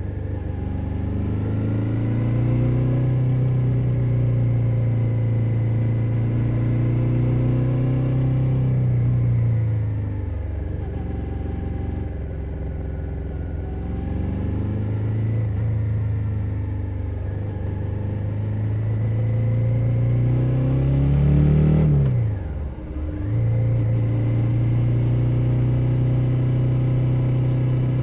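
A stock 2021 Suzuki SV 650's 645 cc 90-degree V-twin under way, heard from under the seat. The engine note holds steady, eases off and falls, then climbs again under throttle. About 22 seconds in the revs rise, drop sharply and pick back up.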